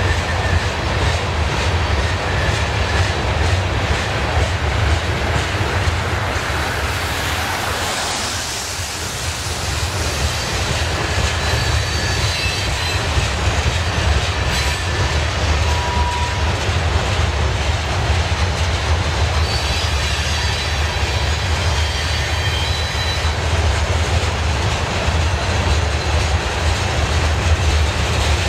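BNSF grain train of loaded covered hopper cars rolling past steadily: a low rumble with wheels clicking over the rail joints. Short high-pitched squeals of wheel flanges on the curve come through now and then in the second half.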